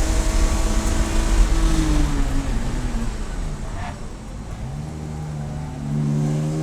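Race car engine running at high revs, its pitch falling as it slows about two to four seconds in, then climbing again as it accelerates from about five seconds.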